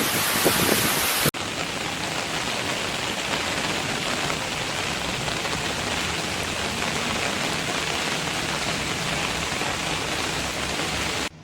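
Heavy rain falling in a steady, dense hiss. It briefly drops out about a second in, then resumes and cuts off abruptly near the end.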